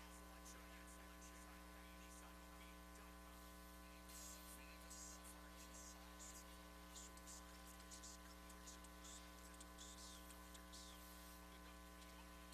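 Near silence: a steady electrical mains hum, with faint crackling static coming in from about four seconds in.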